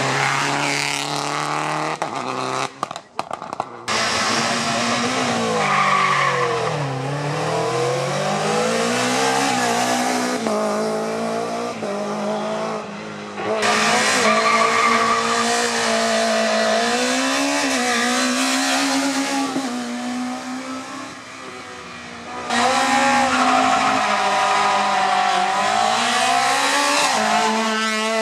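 Rally car engines revving hard, their pitch repeatedly climbing and dropping through gear changes and lifts. The sound cuts abruptly to a new car or passage a few times.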